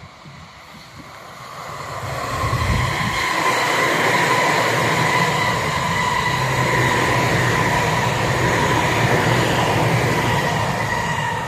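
Tobu Tojo Line electric train passing by: the sound swells in over the first couple of seconds, then runs loud and steady with a low rumble under a steady high tone, and starts to fade right at the end.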